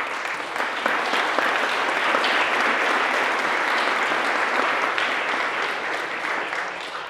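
Audience applauding: a burst of many hands clapping that swells, holds, and tapers off near the end.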